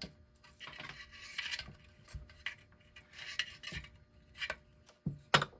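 Electric clock's power cord being worked out through a wooden clock case: several short scraping rubs and light clicks, then one sharp, loud click near the end.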